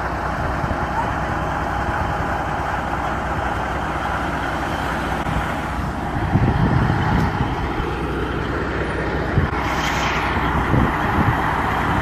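Steady rumble of heavy vehicle noise, with a brief hiss about ten seconds in.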